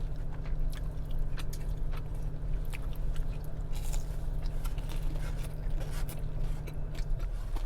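Close-up biting and chewing of crisp tempura, with many small crunches and crackles. A steady low hum runs underneath and eases slightly near the end.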